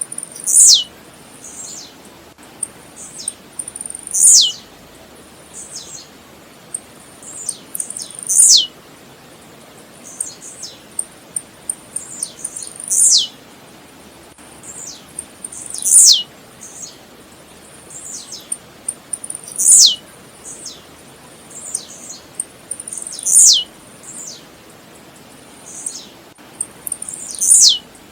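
Blue-black grassquit (tiziu) singing: a short, high note that drops steeply in pitch, repeated eight times about every four seconds, with softer, shorter falling notes in between.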